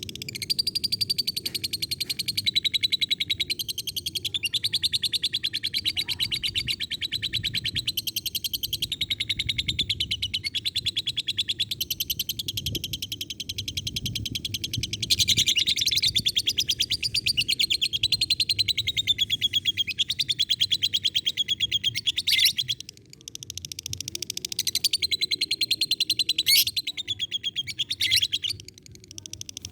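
Lovebird giving its long 'ngekek' chatter, a very fast, high-pitched rattling trill held for many seconds on end. It breaks off briefly twice near the end.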